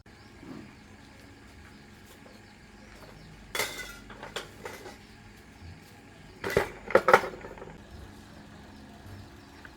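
Sharp metallic clinks and knocks of metal pieces being handled: one knock about a third of the way in, a few lighter clinks after it, and a louder cluster of knocks about two thirds of the way through.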